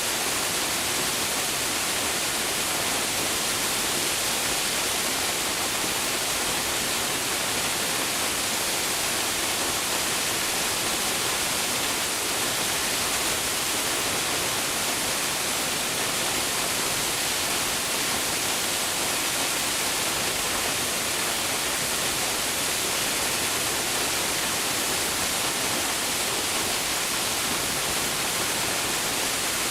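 Waterfall plunging into its pool: a steady, even rush of falling water, strongest in the upper range, that does not change.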